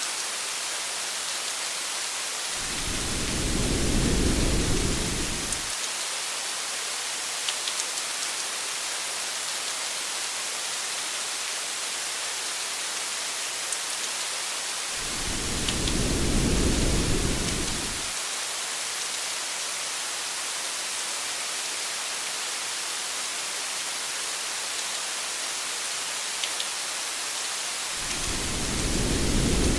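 Steady hiss of rain with a few faint drop ticks. Three times, about twelve seconds apart, a low rumble of thunder swells for about three seconds and fades away.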